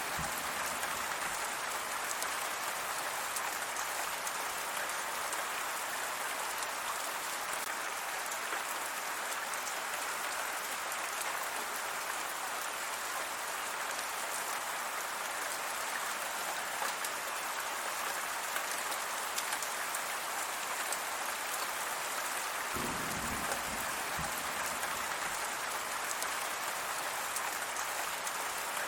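Steady rain falling and pattering on surfaces, an even hiss of many drops. About three-quarters of the way through, a brief low rumble sounds under it.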